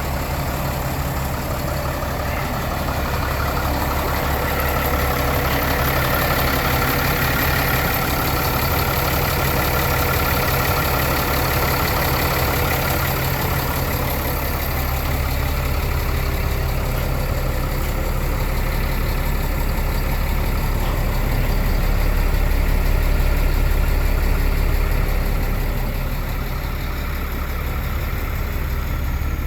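Caterpillar 3126 inline-six diesel engine idling steadily.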